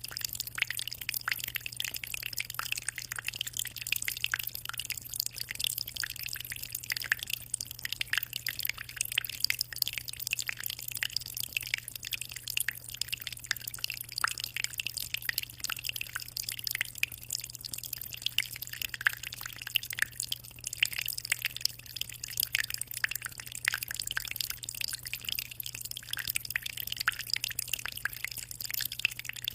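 Aquarium water trickling and splashing continuously, a dense patter of small drips at the water surface, with a steady low hum underneath.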